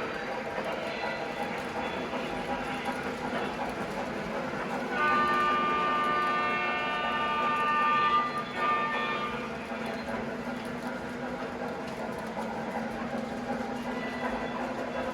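Locomotive running steadily, with its chord horn blowing for about three and a half seconds midway.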